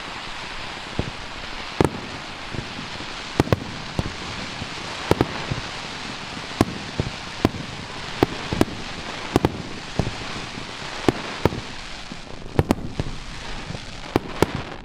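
Starmine fireworks display: a steady dense crackle of bursting shells, with sharp bangs going off irregularly, about one or two a second.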